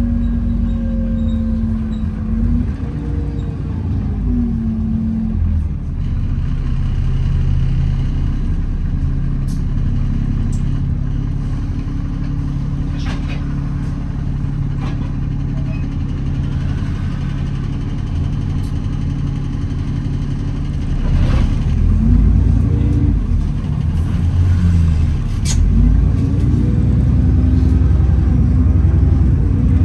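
Alexander Dennis Enviro400 double-decker bus heard from on board, its engine and drivetrain running with a steady low drone. The pitch drops away a few seconds in as the bus slows, then climbs again in rising sweeps near the end as it pulls away, with scattered knocks and rattles from the bodywork throughout.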